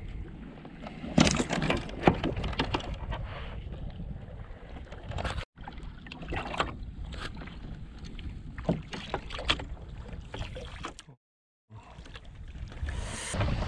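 Close-up sounds of a fishing kayak on the water: irregular knocks and clicks on the hull over a splashing, washing background. The sound drops out abruptly twice, for a moment about a third of the way in and again near the end.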